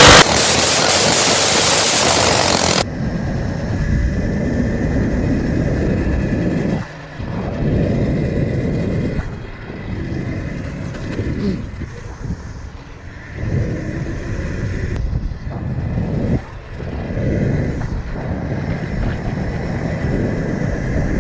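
Small motorbike engines from dirt bikes and a mini bike running and revving, swelling and fading as they ride. A loud rushing noise covers the first three seconds.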